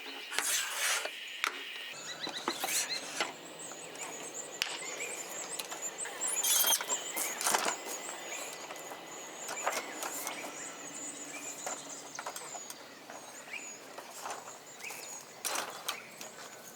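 Irregular clicks, knocks and rustles of objects being handled, over a steady high insect drone that sets in about two seconds in.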